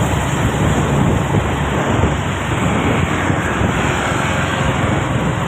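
Truck on the move: a steady low engine note under a broad rush of road and wind noise.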